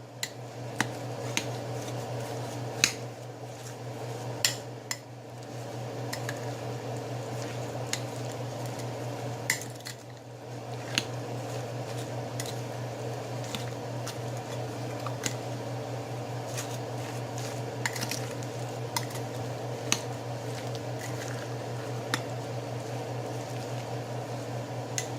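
A utensil mixing chicken salad thick with mayonnaise in a bowl: wet squishing with scattered sharp clicks of the utensil against the bowl, over a steady low hum.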